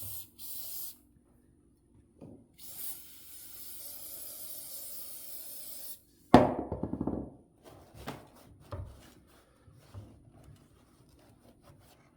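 Aerosol can of starting fluid spraying, used as a parts cleaner: a short spray, then one long steady spray of about three seconds. About six seconds in comes a sudden loud clatter lasting about a second, then scattered clicks and knocks of parts being handled.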